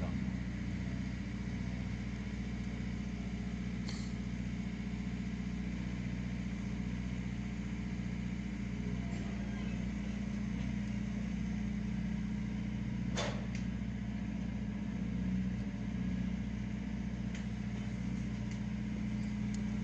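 Steady low mechanical hum of a running machine, with a faint click about four seconds in and a sharper click about thirteen seconds in.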